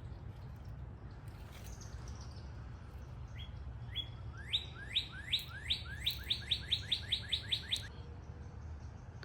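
A songbird singing a series of rising whistled notes, slow at first and then speeding up into a quick run of about a dozen, ending abruptly. A steady low rumble runs underneath.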